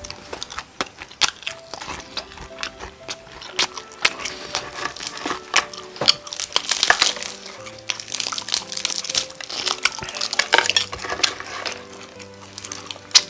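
Close-miked eating of crispy Korean fried chicken: many irregular crackling crunches from biting and chewing the fried crust, over soft background music.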